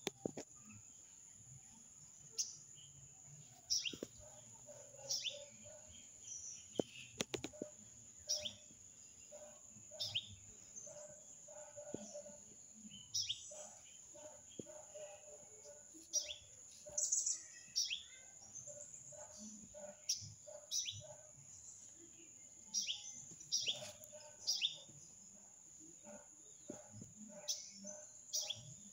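Birds chirping repeatedly, short falling calls about once a second, over a steady high-pitched insect drone.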